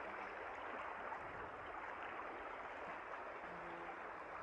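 Faint steady rushing hiss, with two brief low hums: one near the start and one about three and a half seconds in.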